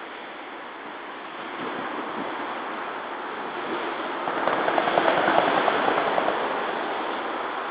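Road traffic on a bridge with wind on the microphone: a vehicle passes, swelling up to a peak about five seconds in with a quick run of ticking, then fading away.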